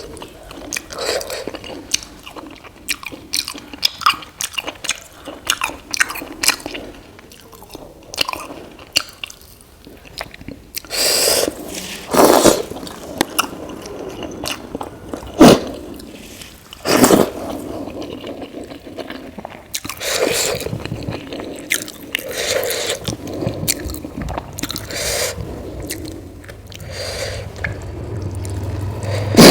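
A person chewing and eating idli with sambar: irregular wet chewing and mouth sounds, with a few louder, sharp sounds near the middle.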